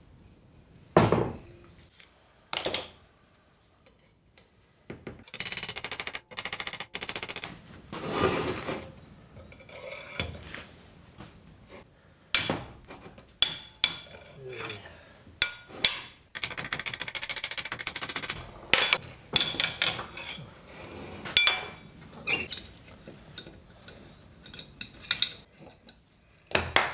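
Hand tools working on a metal turbo manifold: sharp knocks, stretches of rapid clicking and repeated metallic clinks as the exhaust gas recirculation valve is unbolted and taken off.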